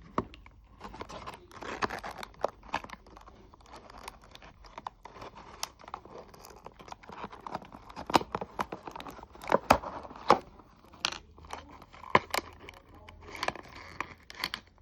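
Toy packaging being torn open and crinkled by hand, with many sharp clicks and snaps scattered throughout.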